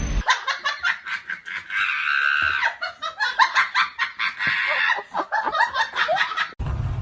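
Laughter in rapid, chopped bursts, high-pitched and thin. Near the end it cuts off abruptly and a steady low rumble takes over.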